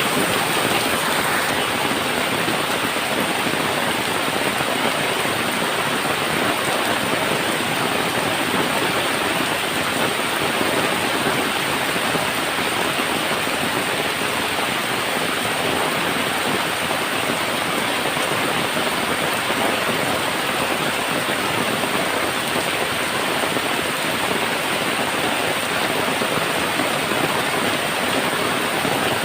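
Heavy rain falling on a tin roof: a steady, dense patter with no letup.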